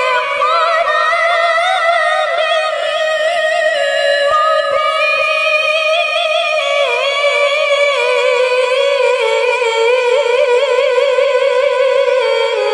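A woman reciting the Quran in the melodic tilawah style, in a high, clear voice. She holds one long ornamented phrase without a break; it wavers rapidly in pitch and slowly falls over the whole phrase.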